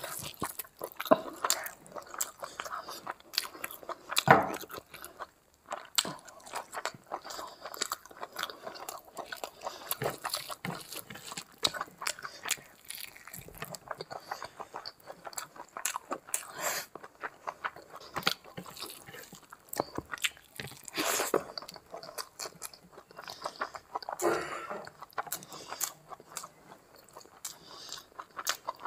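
Close-miked chewing of rice and curry eaten by hand, a steady run of many short, irregular mouth clicks and bites.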